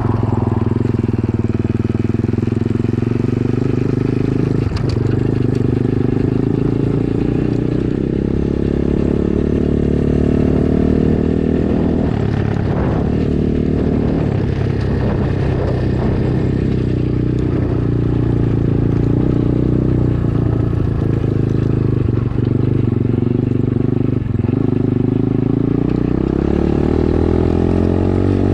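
Dirt bike engine running while ridden, its note rising and falling as the throttle opens and closes, with a few short knocks midway.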